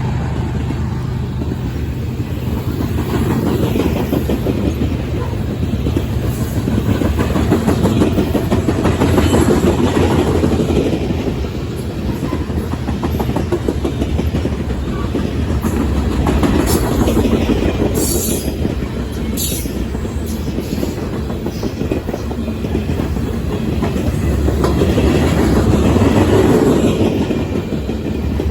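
Freight train cars rolling past: a steady rumble with clickety-clack of wheels over rail joints, swelling and easing, and a few brief high-pitched wheel squeals about two-thirds of the way through.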